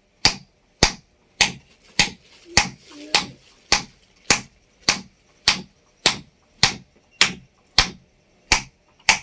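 Hammer striking a chisel against a kitchen grinding stone in a steady rhythm, sharp metallic taps about one every 0.6 seconds, roughening (dressing) the stone's worn grinding face.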